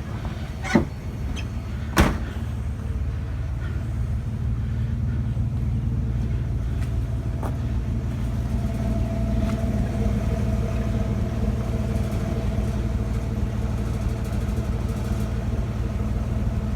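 Car engine idling steadily, with two sharp knocks about one and two seconds in.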